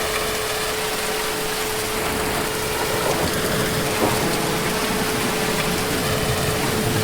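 Heavy rain falling steadily, an even hiss, with a steady tone running underneath. A low rumble swells in during the second half.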